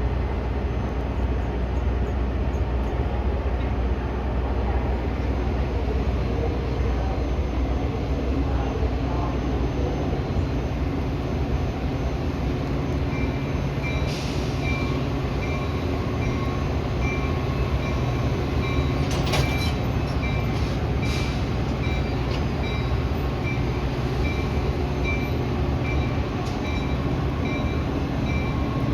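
Commuter train at the station: a steady low diesel rumble. A repeating high tone starts about halfway through, and a few sharp clicks come a little later.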